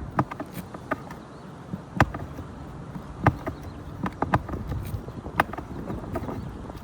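Sharp knocks and taps of a hand tool on an asphalt shingle roof as old roofing nails are worked loose, a hard strike roughly every second with lighter clicks between.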